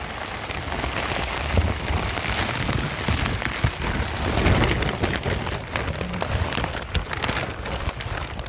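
Steady heavy rain falling, with many sharp drop ticks over a continuous hiss and a low rumble underneath.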